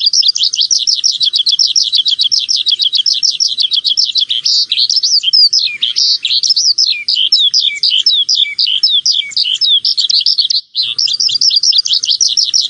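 Small songbirds chirping in a fast, dense, high-pitched twitter that goes on without a pause, with one brief break near the end.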